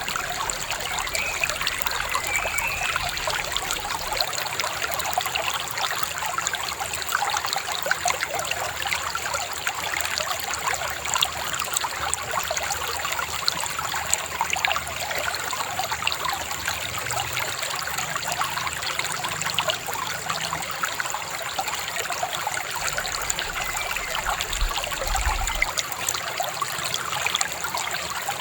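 River water babbling: a steady rush of water with dense small splashes and gurgles.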